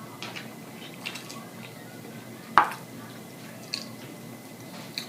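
Wet mouth sounds of someone eating a cheeseburger close to the microphone: scattered soft smacks and clicks, with one sharper, louder smack about two and a half seconds in.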